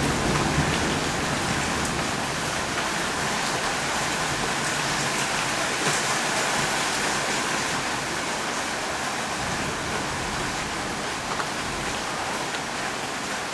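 Steady rain falling, with the tail of a low thunder rumble dying away in the first second.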